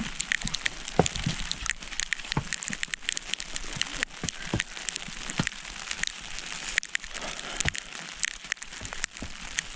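Irregular pattering and crinkling: wet snow and rain striking rain gear close to the microphone, with a few soft low thumps.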